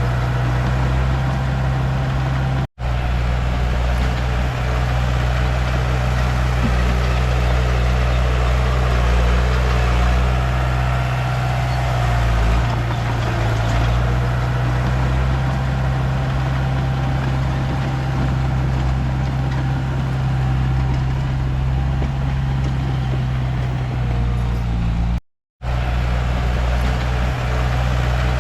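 Komatsu D31P bulldozer's diesel engine running steadily under work, with a strong low hum. The sound cuts out completely for a moment twice, once about three seconds in and again near the end.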